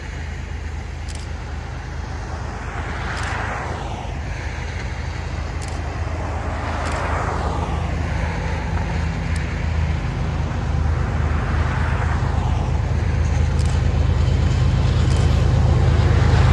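Diesel locomotives of an approaching freight train, a low engine rumble growing steadily louder as the train draws near. Over it, a hiss sweeps down and back up in pitch every few seconds.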